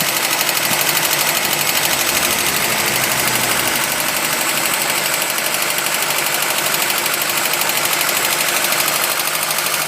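Volkswagen Golf Mk1 four-cylinder engine running steadily with a fast, even rattle. The rattle comes from the water pump pulley wobbling and banging against the pulley cover.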